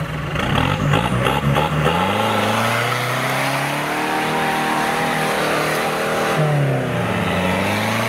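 Off-road 4x4's engine under load, rough and uneven at first, then revving up about two seconds in and holding high; the revs dip briefly near the end and climb again.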